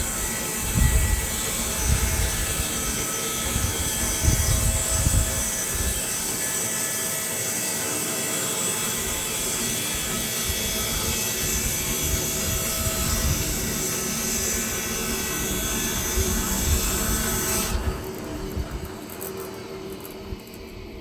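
Woodlands Mills HM126 portable bandsaw mill running and sawing through a log, a steady engine drone under a loud high hiss from the blade in the cut. Near the end the hiss stops suddenly and the machine runs on more quietly as the cut comes to an end.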